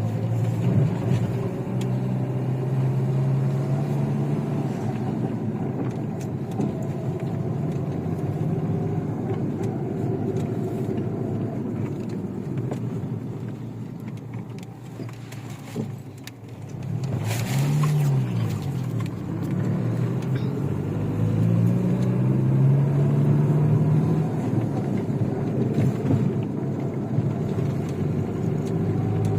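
Chevrolet Niva's engine working while driving off-road, its revs rising and falling again and again. About halfway through it eases off and goes quieter, then a short rushing noise sounds and the revs climb again.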